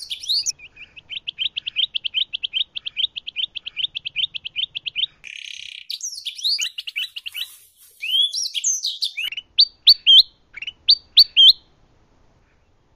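Songbirds singing, a kutilang emas (bulbul) and a canary mixed together. A fast, even trill of about seven high notes a second gives way to varied warbling and then short, rising whistled notes repeated several times. The song stops about a second before the end.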